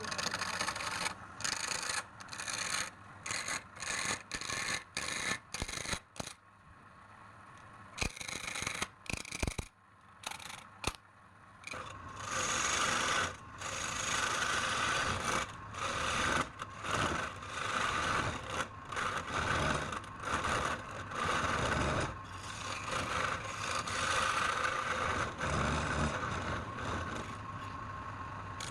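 Wood being rubbed or scraped by an abrasive tool: a run of short strokes with brief pauses, turning about twelve seconds in into longer, nearly continuous rubbing with short breaks.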